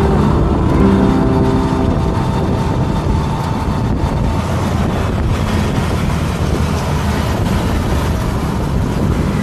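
Road traffic heard from a moving e-bike: a steady low rumble of engines and tyres. In the first two seconds a nearby vehicle's engine hum stands out, then fades.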